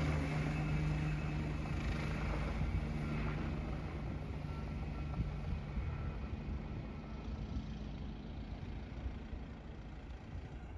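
Leonardo AW169 helicopter flying away, its steady low drone slowly fading into the distance over a low rumble.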